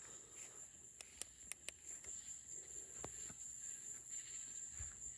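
Night insects, crickets, trilling in a steady high-pitched drone, with a quick run of four sharp clicks about a second in and another click near the middle.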